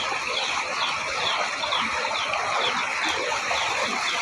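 Steady rush of heavy rain and floodwater, with a short high chirp repeating about twice a second over it.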